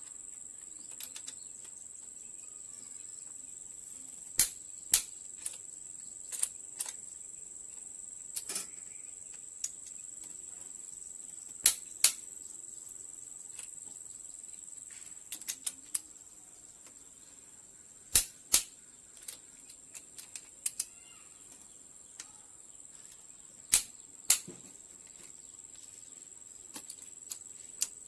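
Sharp metallic clicks and knocks from hand tools at work on an engine, often in pairs about half a second apart and irregularly spaced. Under them runs a steady high-pitched insect drone.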